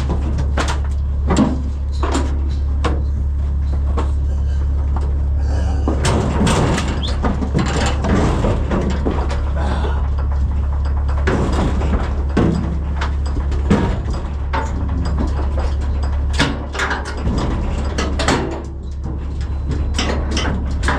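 Livestock hooves knocking and clattering on a metal stock trailer's floor and ramp, with irregular bangs and thumps, over a steady low engine hum.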